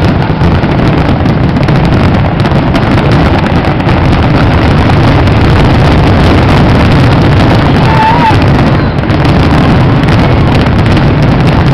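Fireworks finale barrage: shells bursting so fast that the explosions merge into one continuous rumble, loud enough to overload the microphone.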